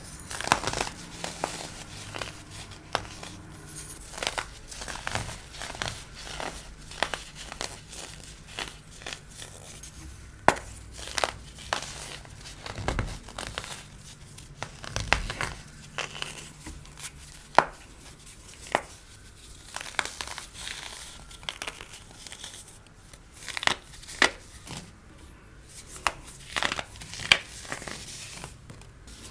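Compressed white baking soda being crushed, crumbling with dense, irregular crunches and crackles and a number of sharper, louder cracks.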